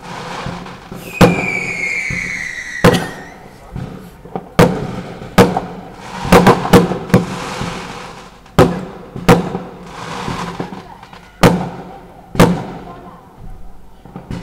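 Fireworks going off: about a dozen sharp bangs at irregular intervals. A high whistle falls slightly in pitch for about two seconds, starting about a second in, and there is some hissing and crackling between the bangs.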